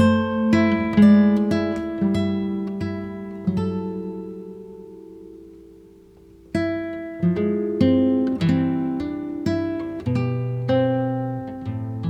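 Background music: acoustic guitar playing plucked notes, a phrase that fades out in the middle before a new phrase begins about six and a half seconds in.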